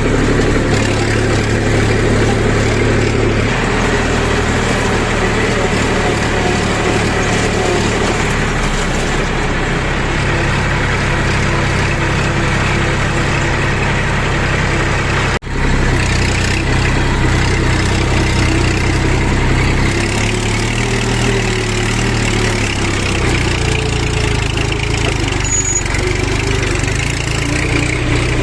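Heavy construction machinery's diesel engine running steadily, with a brief break about halfway through.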